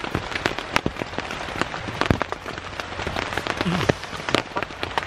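Heavy rain falling on a tent, with many irregular sharp drop hits over a steady hiss.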